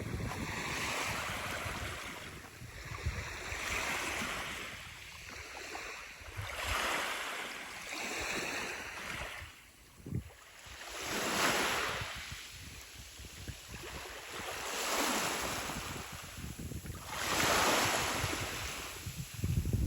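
Black Sea surf: waves breaking and washing up the shore, the rush of water swelling and fading every three to four seconds.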